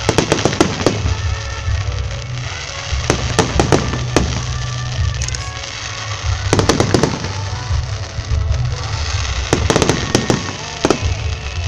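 Fireworks shells bursting at close range, in volleys of sharp bangs and cracks: near the start, around three to four seconds in, around seven seconds, and again near the end.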